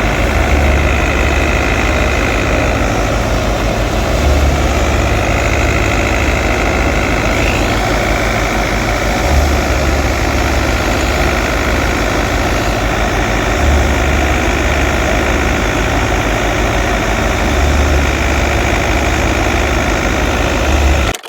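Fiat 640 tractor's diesel engine running steadily under load, driving a wheat thresher as it threshes wheat. A low throb swells every few seconds.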